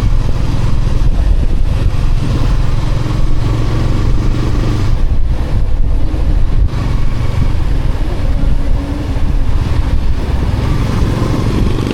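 Yamaha Sniper 155R's single-cylinder four-stroke engine running steadily while the motorcycle is ridden, with road noise.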